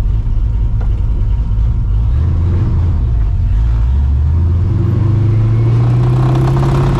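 Straight-piped, Procharger-supercharged 5.4-litre V8 of a 1999 Mustang GT rumbling at low revs, then pulling in gear with its pitch rising steadily from about two seconds in until near the end.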